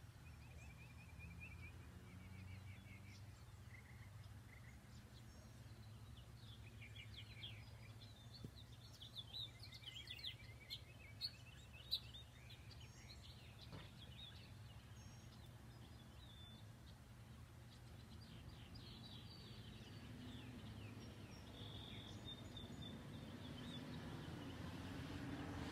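Faint birdsong: several birds chirping and trilling on and off, over a steady low rumble. Near the end the noise of an approaching car starts to rise.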